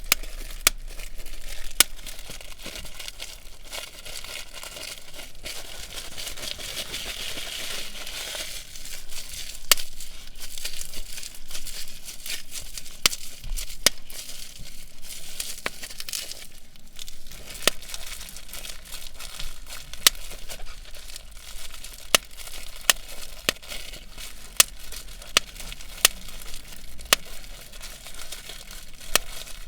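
Bubble wrap being handled and popped: irregular sharp pops, roughly one a second, over a steady crinkling rustle of plastic.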